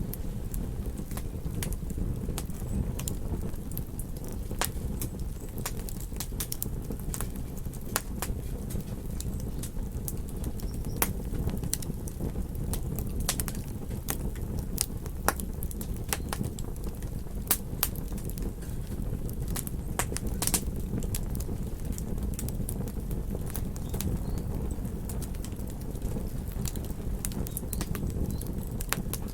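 Wood campfire crackling, with irregular sharp pops and snaps, over a steady low rumble of ocean surf.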